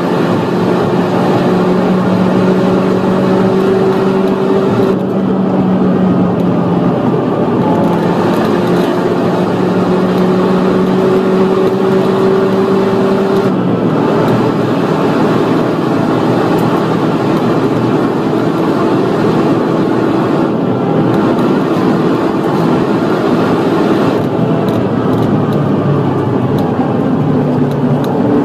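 Opel Astra H OPC's turbocharged 2.0-litre four-cylinder engine at full throttle, heard from inside the car at high track speed. Its note climbs slowly in pitch, drops sharply about five seconds in and again at the shift into fifth gear about fourteen seconds in, then holds steadier. It changes again just before the end as the car shifts back into fourth.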